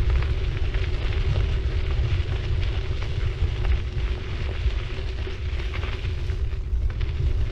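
City bike riding along, heard from a GoPro mounted on it: heavy wind rumble on the microphone over the tyres' rolling noise and crackle on the road surface, with a steady hum underneath.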